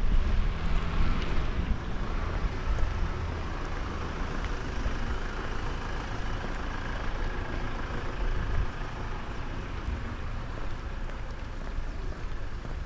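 Wind buffeting the microphone in gusts, strongest in the first few seconds, with a motor vehicle passing.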